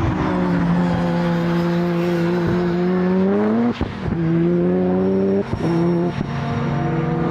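Time attack race car accelerating hard, its engine note climbing through the revs with three quick upshifts, the first about halfway through and two more close together near the end.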